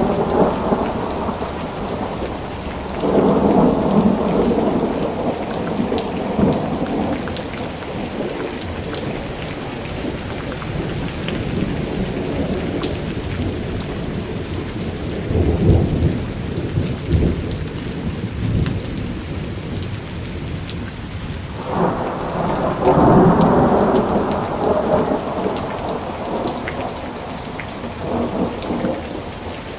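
Thunderstorm: steady heavy rain with roll after roll of thunder, each rumbling for several seconds. A roll is fading as it begins, new ones break about three seconds in, about fifteen seconds in (deeper), and about twenty-two seconds in.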